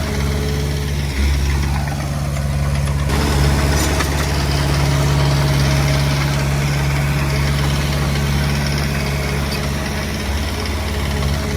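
Diesel engine of a Komatsu D20P bulldozer running steadily with a low, even drone.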